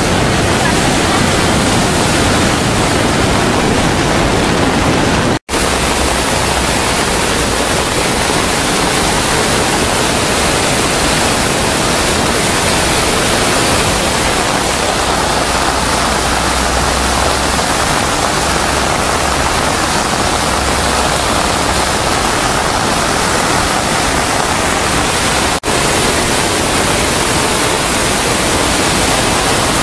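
Loud, steady rush of water from torrential rain and flooding, dropping out for an instant about five seconds in and dipping briefly again near the end.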